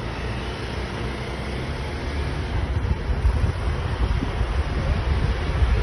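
Motorbike under way: engine running with wind rumbling on the microphone, getting louder near the end.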